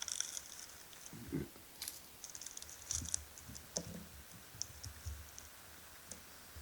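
Faint, scattered crackling clicks as a giant water bug's crunchy body is handled, with a few short low sounds among them.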